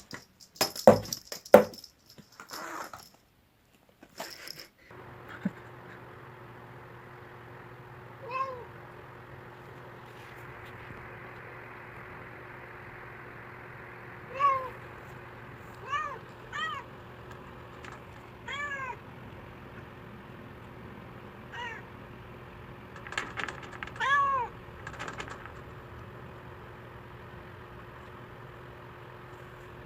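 Domestic cat meowing, a series of short meows scattered through, the loudest about two-thirds of the way in, over a steady background hum that starts about five seconds in. The first few seconds hold a few loud clicks and rustles.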